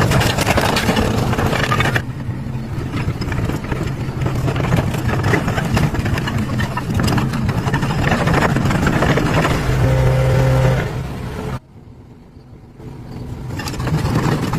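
A car engine running loudly and roughly. The sound shifts abruptly about two seconds in and drops off sharply near the end before building again.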